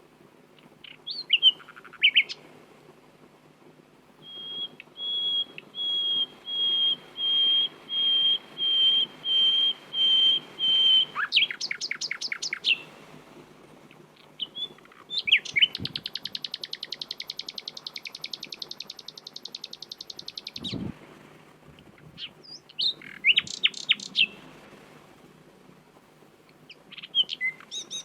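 Common nightingale singing in separate phrases: a run of about a dozen repeated piping whistles that grow louder, a fast buzzy rattle lasting about five seconds, and short clusters of sharp chirps, with pauses between.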